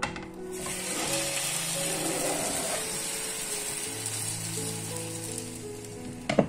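Potato and egg cake, just flipped, sliding back into an oiled frying pan and sizzling steadily against the hot surface. Near the end, a brief clack as a glass lid is set on the pan.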